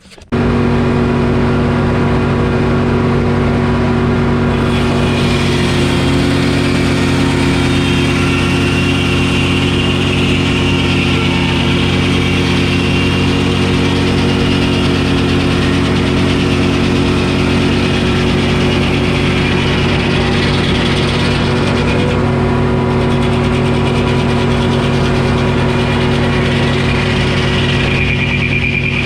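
Detroit Diesel engine powering a Frick sawmill, running at a steady speed. A higher whine joins the engine from about four seconds in, fades around three-quarters of the way through, and comes back near the end.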